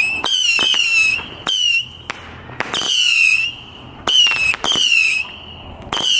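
Whistling fireworks going off one after another. About seven shrill whistles, each half a second to a second long and dropping slightly in pitch, each starting with a sharp crack.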